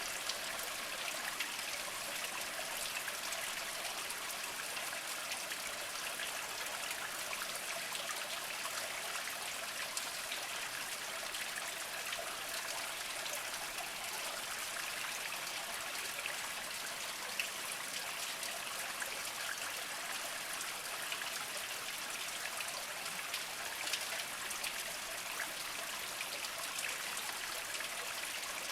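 Small mountain spring trickling and dripping over mossy rocks: a steady splashing with scattered little drips.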